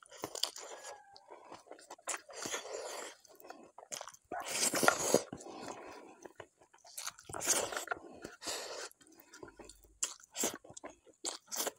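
Close-miked chewing of hand-fed rice mixed with bharta: irregular wet mouth sounds with smacks and clicks, loudest about four to five seconds in.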